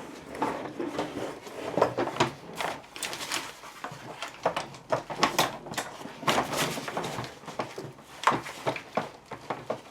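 Plastic parts of a telescopic suitcase handle being pulled and worked loose by hand: irregular clicks, knocks and rattles.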